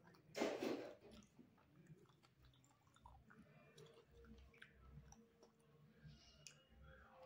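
A person chewing chicken and rice with the mouth closed: soft, faint mouth sounds, with a brief louder noise about half a second in. Light clicks come from fingers working food on a steel plate.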